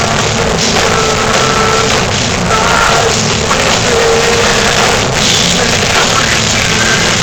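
Heavy metal band playing live: distorted guitars and a pounding drum kit, loud, dense and muddy.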